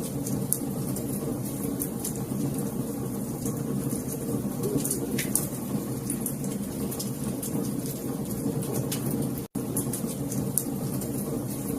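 Wood fire crackling, with frequent sharp pops and snaps over a steady low rumble of the flames. The sound drops out for a split second about nine and a half seconds in.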